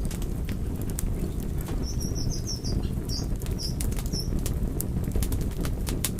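Wood fire crackling: a steady low rumble of burning with many sharp pops and snaps scattered throughout. A quick run of about six short high-pitched chirps comes about two to four seconds in.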